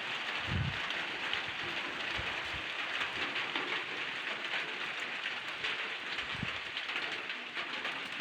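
Light rain falling, a steady patter of drops, with two soft low thuds, one about half a second in and one near the end.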